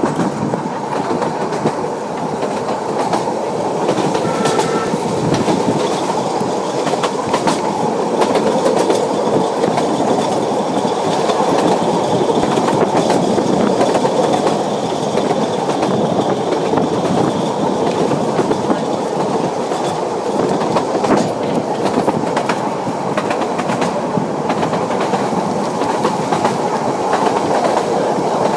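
Ffestiniog Railway narrow-gauge carriage running steadily along the line: continuous wheel-on-rail noise with repeated clicking over the rail joints, heard from the carriage window.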